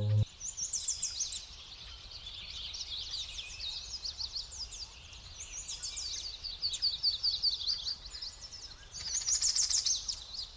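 Songbirds singing: quick high chirping notes in repeated phrases, with a faster, louder run of notes near the end.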